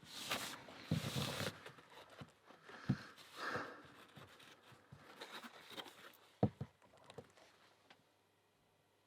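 Handling noises: thick rubber diving gloves rustling and rubbing, with several sharp clicks and knocks as the padlock and tools are handled, the loudest knock about six and a half seconds in.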